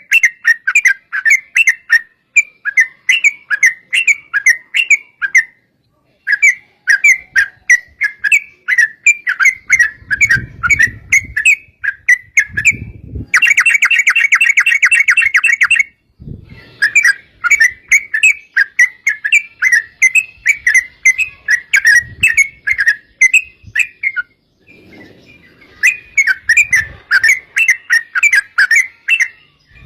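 Yellow-vented bulbul (trucukan) singing long runs of rapid, bubbly repeated notes, broken by short pauses, with a faster rattling trill about halfway through.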